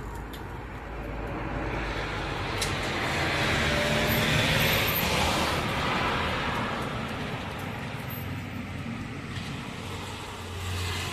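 A road vehicle passing by, its noise swelling to a peak about four seconds in and then fading away.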